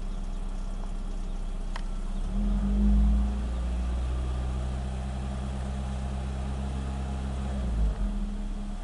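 1995 Nissan Primera P10 engine idling, then revved up sharply about two seconds in, held at a steady higher speed for several seconds and let drop back to idle near the end.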